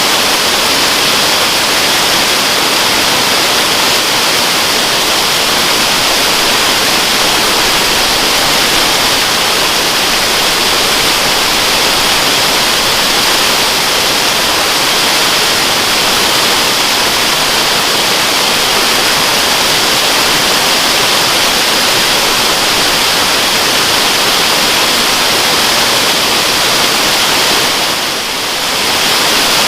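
Waterfall rushing, a steady hiss of falling water that dips briefly in loudness near the end.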